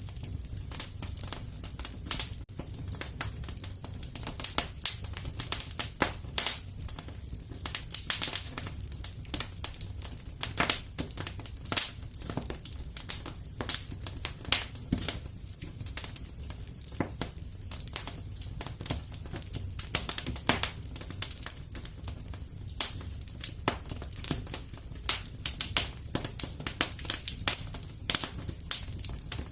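Wood fire crackling in a fireplace: irregular sharp pops and snaps, some louder than others, over a steady low rumble of the flames.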